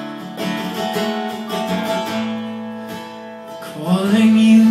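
Live acoustic guitar playing the opening of a song, steady held chords, with a man's singing voice coming in near the end.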